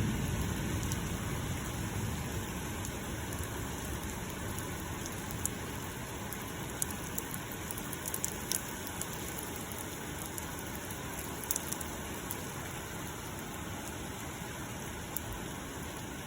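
Steady rain falling during a thunderstorm, with scattered sharp drips. The low rumble of a thunderclap dies away at the start.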